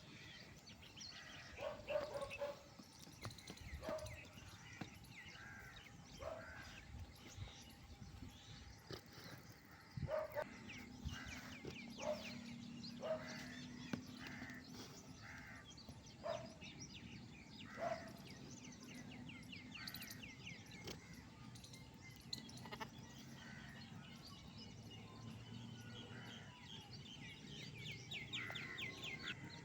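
Short animal calls repeated about every two seconds, with birds twittering over them.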